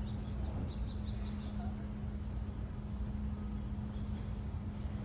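Outdoor ambience: a steady low hum and rumble, with a bird singing a quick run of short, evenly repeated high notes in the first second or so.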